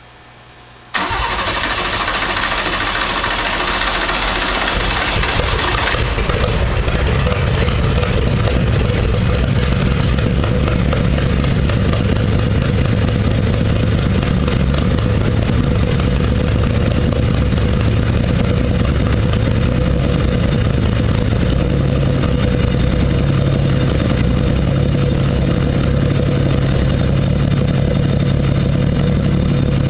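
The Zipper Lakes Modified race car's engine starts on a cold start with the choke partly pulled out. It bursts into loud running about a second in, runs harsh and bright for the first few seconds, then settles into a steady, loud idle.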